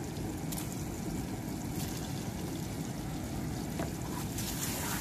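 Green chilies and curry leaves sizzling in melted butter in a frying pan, a steady hiss with a few faint clicks of a wooden spatula against the pan.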